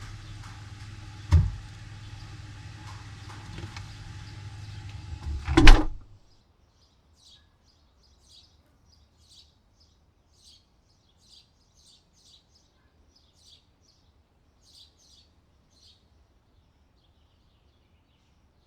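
Steady hum with two heavy thumps, the second the loudest, after which the hum cuts off suddenly; faint high chirps, like small birds, follow every second or so.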